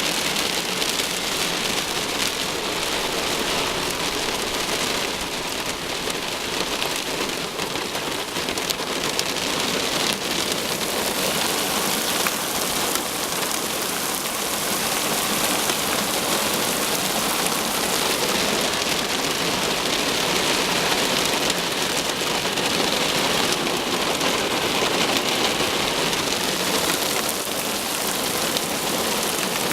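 Heavy thunderstorm rain falling steadily, a continuous even hiss.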